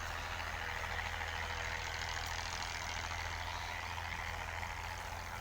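Steady low hum of an engine running at idle, under a broad, even hiss.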